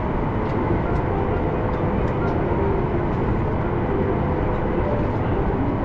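Steady rumble and hiss inside the cabin of a Boeing 737 MAX 8 airliner on the ground during pushback, even in level throughout.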